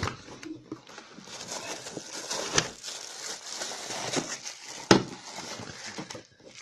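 A hair dryer's retail box and its packaging being opened and handled: continuous rustling and crinkling with a few sharp clicks or snaps, one right at the start and two more a few seconds apart.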